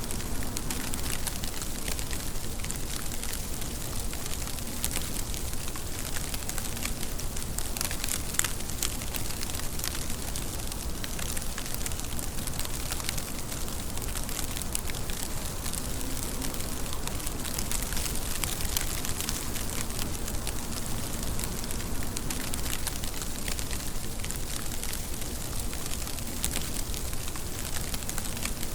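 Steady rainfall, an even hiss of rain with many separate drop hits ticking through it.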